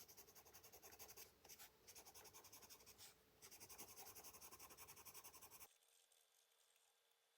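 Colored pencil scratching on paper in quick back-and-forth shading strokes, faint. The strokes stop abruptly about two-thirds of the way through.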